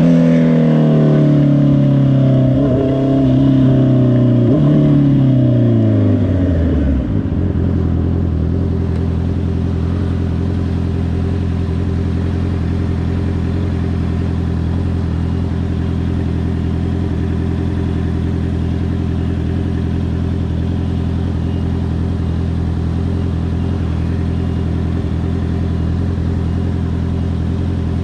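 2022 Honda CBR650R's inline-four engine coming down off the throttle, its pitch falling in three steps over about seven seconds, then idling steadily.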